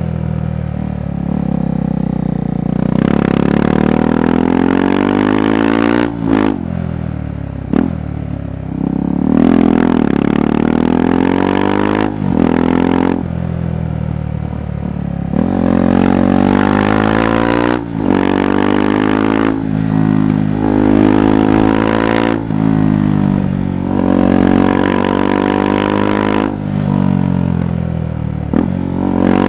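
KTM 390 Adventure's single-cylinder engine and exhaust under way, rising in pitch as it accelerates and falling off, with short breaks several times where the rider shifts gears or rolls off the throttle.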